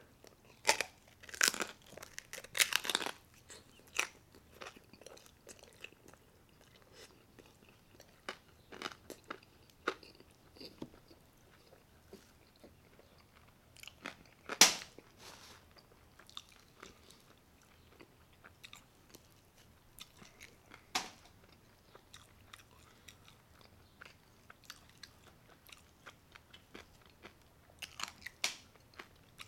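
Close-up crunching and chewing of a deep-fried chicharrón (fried pork skin with meat attached), dipped in guacamole. Loud crunchy bites come in a cluster over the first three seconds, a single sharp crunch about halfway, then quieter chewing with scattered crunches and another burst of crunching near the end.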